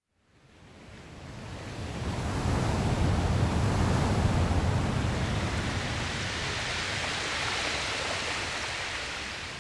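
Ocean waves rolling and washing on a shore, fading in from silence over the first couple of seconds, swelling to its loudest a few seconds in, then easing off toward the end.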